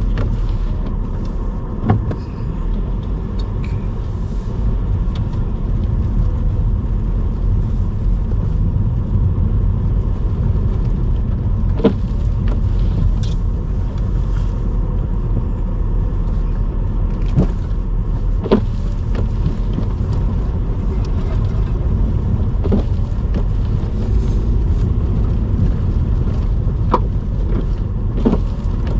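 Car driving along a road, heard from inside: a steady low rumble of engine and road noise, with a few short sharp knocks scattered through it.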